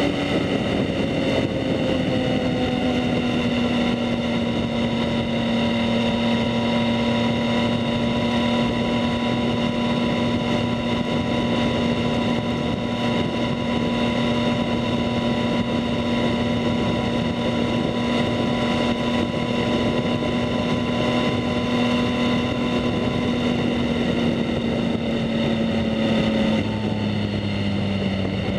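2019 Yamaha MT-09's inline three-cylinder engine through a Two Brothers S1R full exhaust, running steadily at cruising speed with rushing wind noise, its pitch sagging slightly. Near the end the engine note steps down.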